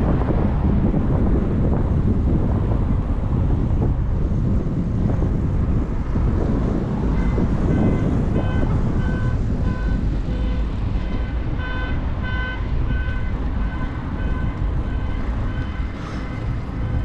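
Wind buffeting the microphone of a camera on a moving e-bike, mixed with road and traffic noise. From about seven seconds in, a short electronic beep repeats roughly twice a second for about nine seconds.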